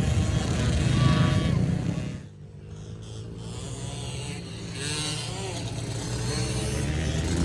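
Small four-stroke single-cylinder dirt bike engine, a Honda CRF110, running under throttle; it drops off sharply about two seconds in, then picks up and builds again.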